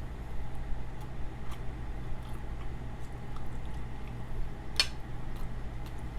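A person chewing a mouthful of pot roast, with faint wet mouth clicks and one sharper click nearly five seconds in, over a steady low hum.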